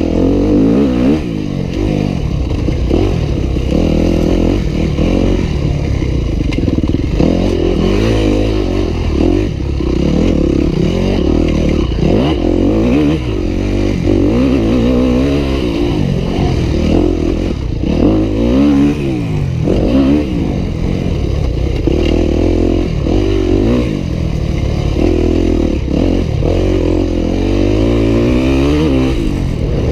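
Yamaha YZ250F dirt bike's four-stroke single-cylinder engine being ridden hard, its pitch climbing and dropping over and over as the throttle is opened and closed.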